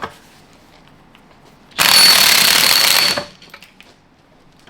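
Pneumatic impact wrench running in one burst of about a second and a half, hammering at a nut on the NV5600 transmission's main shaft.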